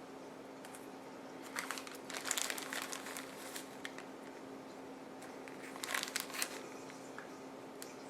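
A bag being handled, crinkling and rustling in two bouts, the first about a second and a half in and the second near six seconds, over a steady faint hum.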